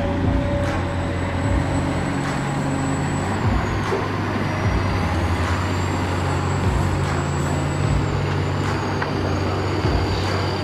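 Toy excavator running: a steady engine-like low hum with a thin high whine that slides down and back up in pitch, and scattered small clicks.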